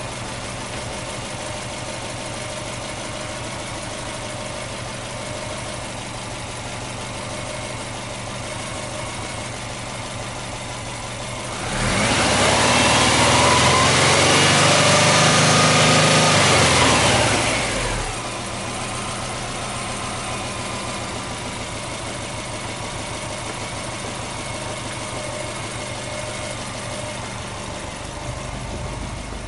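Subaru Impreza WRX's turbocharged flat-four (boxer) engine idling steadily, then revved once about twelve seconds in. The revs are held high for about five seconds and then drop back to a steady idle.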